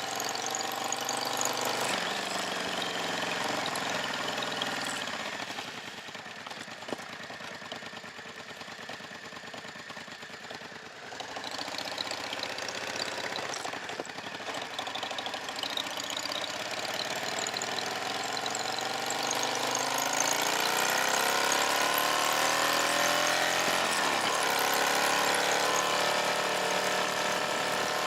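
Motorcycle engine running, quieter for a few seconds in the first half. In the second half its pitch rises steadily, drops once sharply and rises again.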